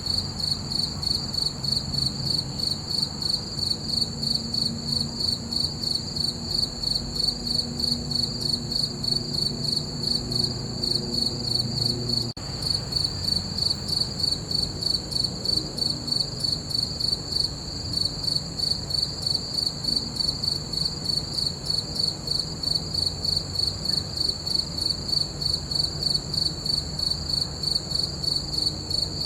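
Crickets chirping in a steady, even rhythm, a high pulsing trill that never lets up, over a faint low background hum.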